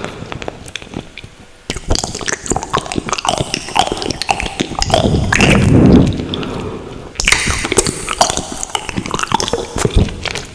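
Close-miked wet mouth sounds of eating ramen noodles: chewing with sticky smacks and clicks, and a louder stretch about five to six seconds in.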